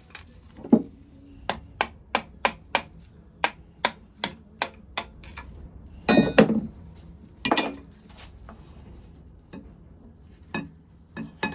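A hammer tapping on metal engine parts: a quick run of about ten light blows with a metallic ring, roughly three a second, then a couple of heavier clunks of metal parts.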